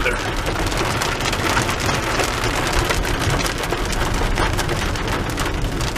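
Rain falling on a moving car's roof and windshield, heard from inside as a dense stream of fine ticks over the steady low rumble of the car driving on a wet road.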